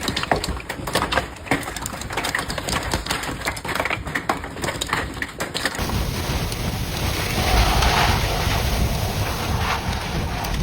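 Large hailstones striking a hard surface: many sharp, irregular knocks in quick succession. About six seconds in this gives way to a steady rush of heavy rain and wind buffeting the microphone.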